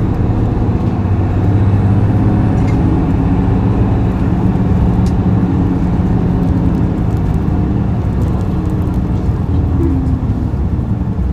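Isuzu Erga city bus's turbo diesel engine revved hard under acceleration, heard from the rear seat inside the cabin, near the engine.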